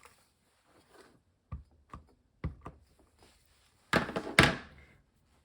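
A clear photopolymer stamp on an acrylic block is tapped lightly on an ink pad a few times. About four seconds in it is pressed down onto cardstock on the table with two heavier thunks.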